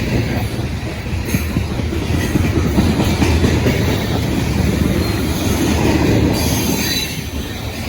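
CSX coal train passing close by: a steady heavy rumble of the cars with wheels clattering over the rails, and a thin high wheel squeal near the end. The train's mid-train diesel DPU locomotives are going by.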